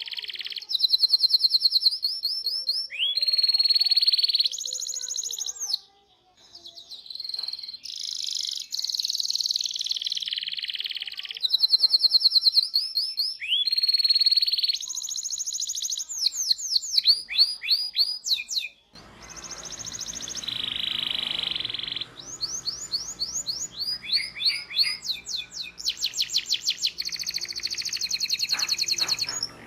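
Canary singing a long run of fast rolling trills and rapid repeated chirps, phrase after phrase with brief breaks. A faint low hum comes in about two-thirds of the way through.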